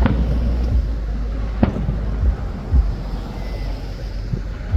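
Fireworks going off: two sharp bangs about a second and a half apart, then several dull thumps, over a steady low wind rumble on the microphone.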